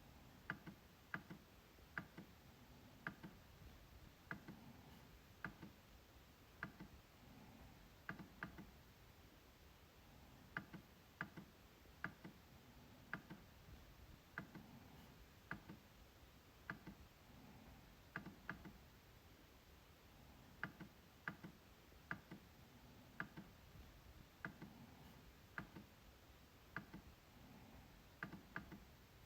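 MacBook trackpad clicking: short, sharp, quiet clicks at an uneven pace, often in quick pairs, about one or two a second.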